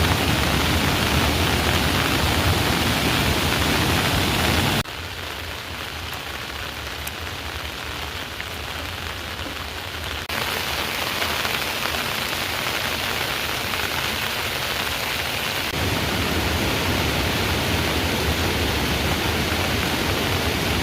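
Heavy rain falling, a dense steady hiss of drops on surfaces. The sound drops sharply about five seconds in, then steps back up twice, around ten and sixteen seconds in.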